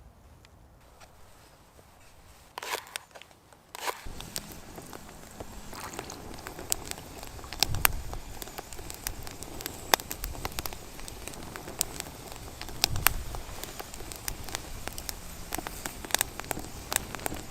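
Wood campfire crackling with frequent sharp, irregular pops, starting about four seconds in after a brief rustle.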